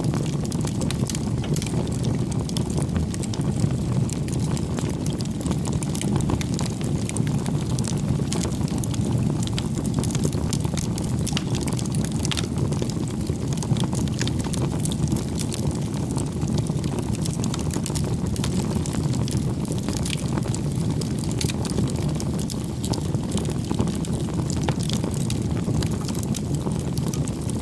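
Campfire burning: a steady low rush of the flames with frequent small, sharp crackles and pops from the burning wood.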